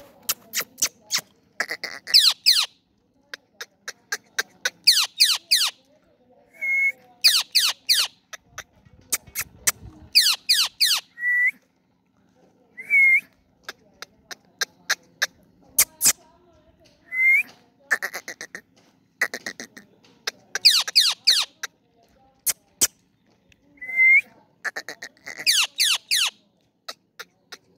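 Indian ringneck parakeet calling in bursts of rapid, shrill squawks, with short rising whistled notes in between.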